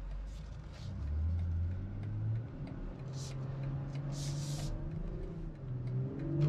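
2021 BMW X3 M40i's 3.0-litre turbocharged inline-six heard from inside the cabin, its note rising for about a second and a half as the SUV accelerates out of a turn, then holding steady at cruise. Two short hisses come near the middle.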